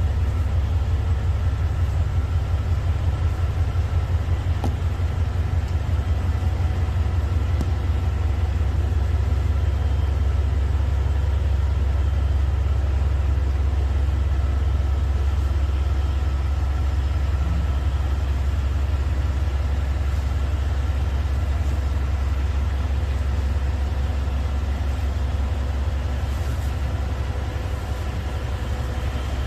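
Train running with a steady, unchanging low rumble, with a few faint steady tones above it.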